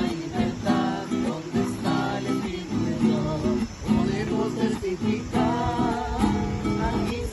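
Acoustic guitar strummed in a steady rhythm, with a voice singing along in places.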